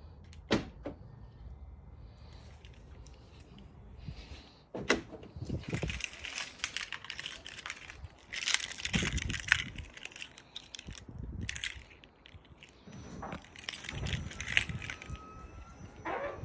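A string of sharp clicks, knocks and rustling handling noises, loudest around five and nine seconds in, over a faint low hum that fades out about four seconds in.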